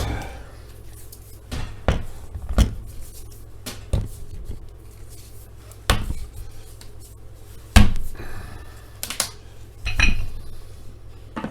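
Weights and a wooden board being lifted off a floor and set down: a string of about seven irregular knocks and clanks, the loudest a little past the middle.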